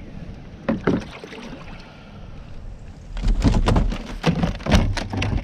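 Knocks and thumps against a kayak hull, two at about a second in, then a rapid, loud flurry from about three seconds on: a northern snakehead thrashing while it is handled.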